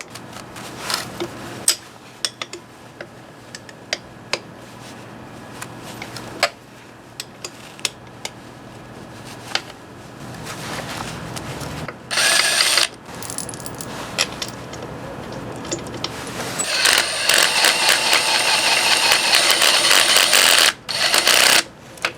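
Tool work on the bolts of a motorcycle part. Scattered light metal clicks and taps, then a short burst of rattling mechanical noise about twelve seconds in and a longer, louder run of about four seconds near the end, the sound of a tool turning the bolts out.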